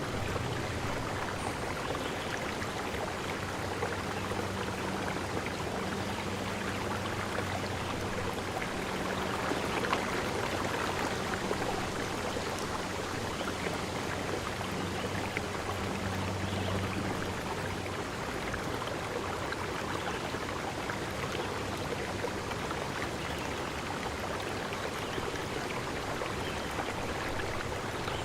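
Forest stream water flowing steadily over stones, a continuous rushing and babbling.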